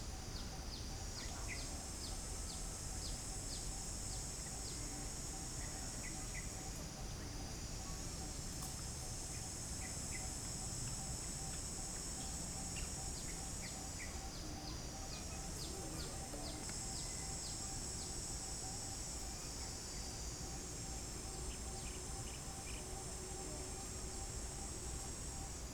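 High-pitched insect chorus buzzing continuously, dipping briefly every six to seven seconds and then swelling back, with a few short bird chirps over it.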